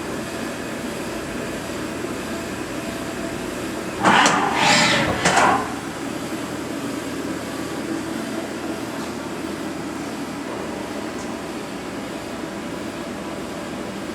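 Haas VF3 vertical machining center running a rigid tapping cycle, a steady machine hum. About four seconds in comes a loud sound in two parts, lasting about a second and a half.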